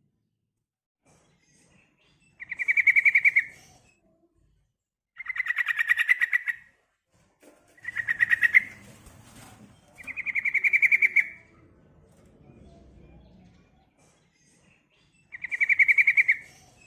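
Female yellow-vented bulbul calling to a male: five bursts of fast, evenly pulsed notes, each about a second long, with gaps of a few seconds between.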